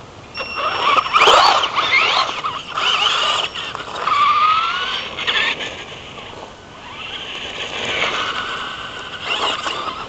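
Traxxas Slash RC truck's electric motor whining as the truck accelerates and slows, its pitch sweeping up and down several times, with tyre scrub and skidding noise.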